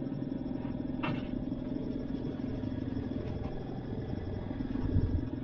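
A steady low engine hum, with a short click about a second in and a low thump near the end.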